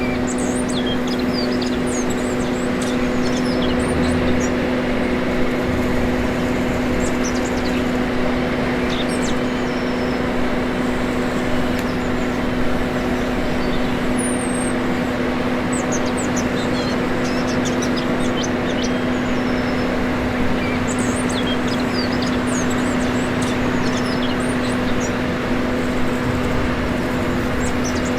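1/14-scale remote-control construction machinery running with a steady mechanical hum, with birds chirping here and there.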